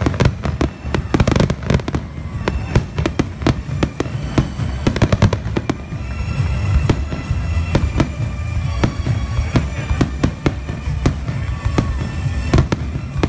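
Fireworks display: aerial shells bursting in quick succession, a dense run of booms and crackles.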